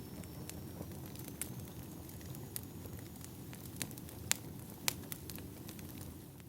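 Wood fire burning, a steady low rumble with scattered crackles and a few sharper pops of the firewood.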